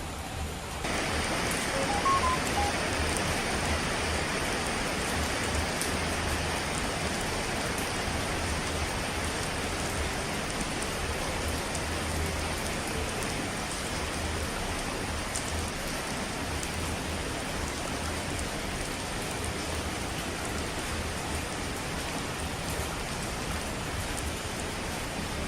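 Steady heavy rain, an even rushing hiss, which grows louder and fuller about a second in.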